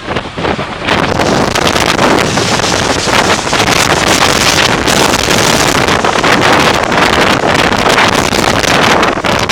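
Jet engines at take-off thrust, their blast striking the microphone as heavy wind buffeting. The noise jumps up about a second in and then holds loud and steady.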